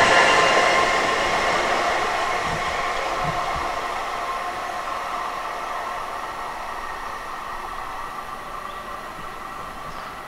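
Long Island Rail Road M9 electric multiple-unit train running away along the track, its running noise fading steadily as it draws off.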